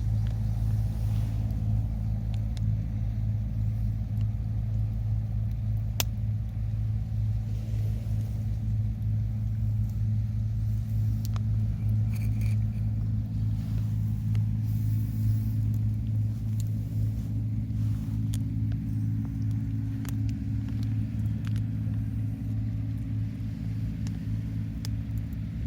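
A steady low engine hum holding one deep pitch, with a few faint clicks over it.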